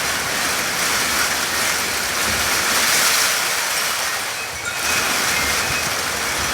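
Heavy rain pouring down in a steady rushing downpour. It swells around the middle and dips briefly about four and a half seconds in.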